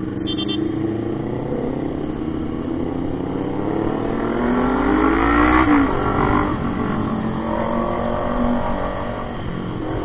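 Motorcycle engine accelerating under way, its pitch rising for a few seconds, then dropping sharply a little past halfway as it shifts up, then running steadier at cruising speed.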